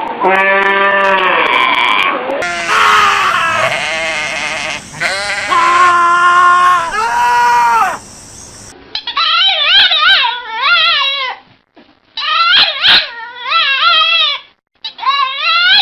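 Goats bleating in long, loud, wavering calls, three or four of them one after another. About nine seconds in, after a cut, a dog's whining howl takes over in a series of quavering calls.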